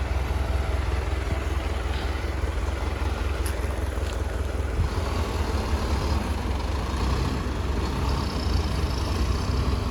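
Heavy diesel earthmoving machinery, a dump truck or bulldozer engine, running steadily as a continuous low rumble.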